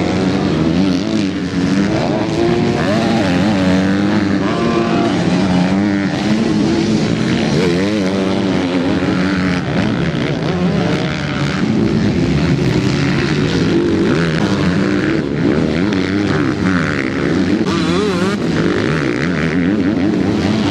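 Several MX2-class motocross motorcycles racing on the track, their engines overlapping and revving up and down as the riders work the throttle and gears.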